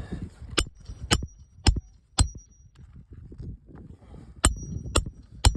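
Hammer driving roofing nails into a shingle: four sharp blows about half a second apart, a pause, then three more, several with a brief metallic ring.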